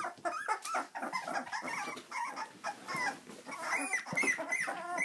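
Miniature dachshund puppies whimpering and squeaking, a run of short high calls with small rustles between them.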